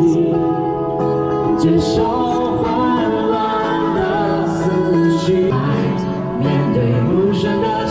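Live band music: a singer with acoustic guitar accompaniment.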